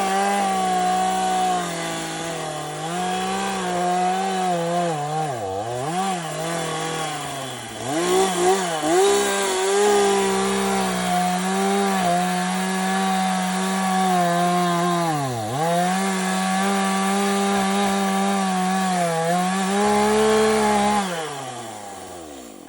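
Gas chainsaw running at full throttle while cutting a downed tree, its pitch dipping sharply a few times as the chain bites into the wood and the engine bogs, then winding down and stopping near the end.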